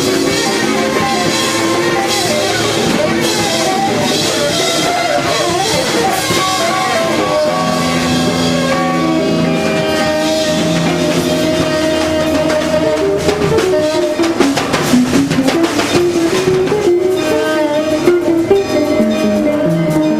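A jazz band playing instrumental music live, with held melodic lines over guitar and drum kit. The drums grow busier and more accented in the second half.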